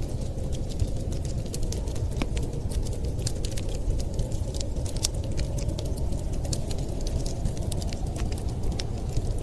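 Wood fire crackling, with many quick sharp pops and snaps at irregular moments over a steady low rumble.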